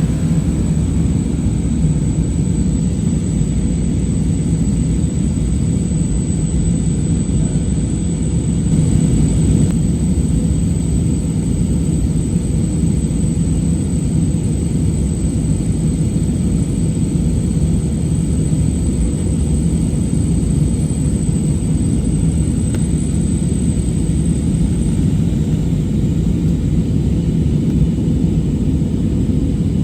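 Airliner cabin noise heard from a passenger seat: a steady, deep drone of engines and airflow.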